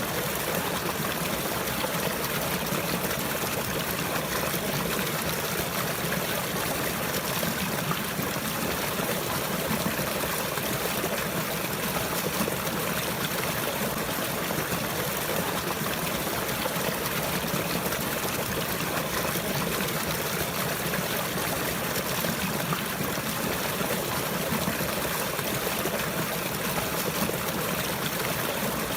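Running water, a stream trickling and flowing with a steady, unchanging rush.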